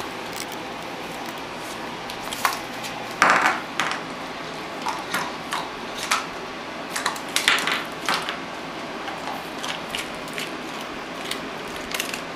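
Irregular small metallic clinks and light knocks, a dozen or so, the loudest about three seconds in, over a steady hum from a running box fan.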